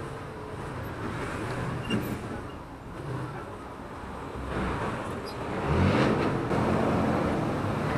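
Kawasaki Fury 125's single-cylinder four-stroke engine running on the move, mixed with wind and surrounding traffic noise. It gets louder about six seconds in.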